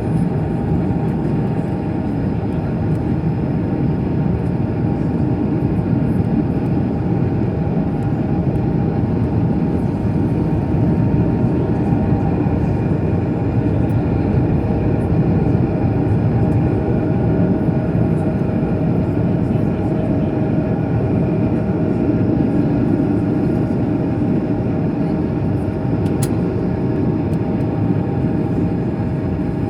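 Steady jet airliner cabin noise in flight after takeoff: the engines and rushing airflow heard from inside the passenger cabin, with a few steady tones over the rush.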